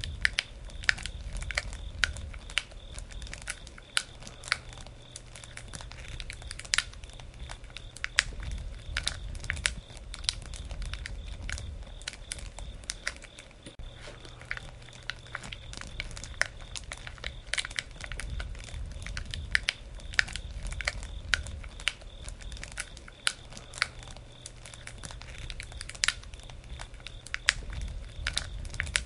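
Campfire crackling, with frequent irregular sharp pops and snaps from the burning wood over a low rumble.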